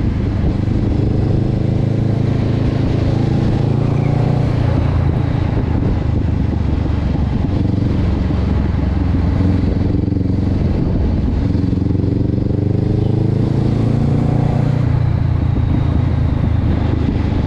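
Honda CB500X parallel-twin engine running through an aftermarket Termignoni exhaust, loud and steady, its pitch dipping and climbing again a few times as the revs change.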